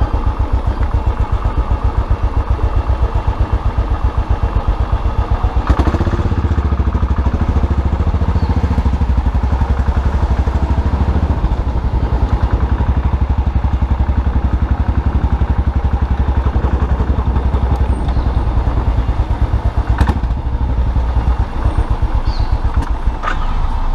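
Custom motorcycle engine running under way, a steady pulsing exhaust beat, with a short change in the sound about six seconds in.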